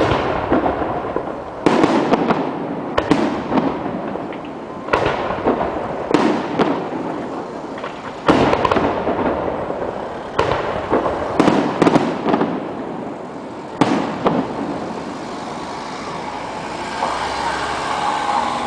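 Fireworks display: a rapid series of loud shell bursts, each a sudden bang trailing off in a rumble, with clusters of crackling reports. The bursts stop about fourteen seconds in, leaving a lower, steady background din.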